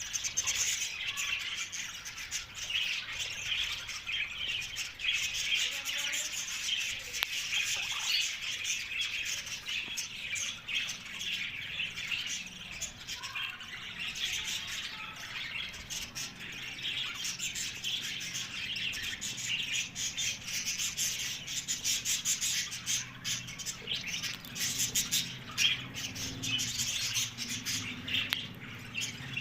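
Alexandrine parakeet squawking and chirping, a busy run of short, harsh calls that keeps going without a break.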